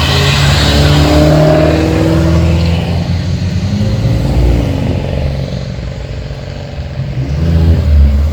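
Car engine revved hard in the first few seconds, the pitch gliding up and back down, then dropping back toward idle before being blipped up again near the end.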